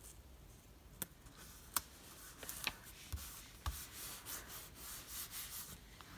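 Paper being rubbed and pressed down by hand onto a craft tag: faint, uneven rustling with a few light taps and clicks.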